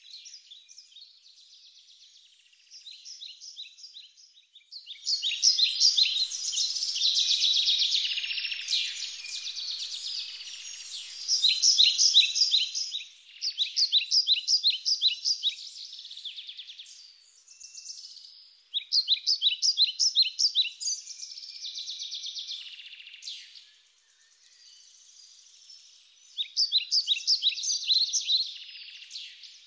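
Birds singing: high trills of rapidly repeated notes in phrases a few seconds long, several overlapping at times.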